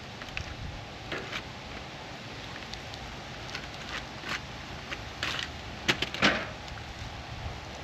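Scattered taps, clicks and scrapes of food being handled and moved around while cooking, over a steady background hiss. The loudest is a pair of sharp clicks about six seconds in.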